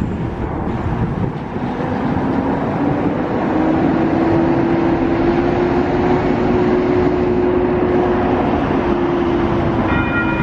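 Approaching commuter train's diesel locomotive: a steady engine tone over a low rumble that grows louder. Near the end its air horn starts, several notes at once.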